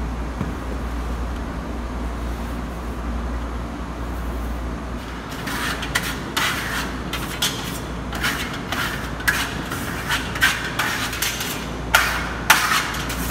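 Steel marmorato trowel scraping burnt-cement effect paste onto a wall in short, quick, repeated strokes. The strokes start about five seconds in and grow louder near the end, over a steady low hum.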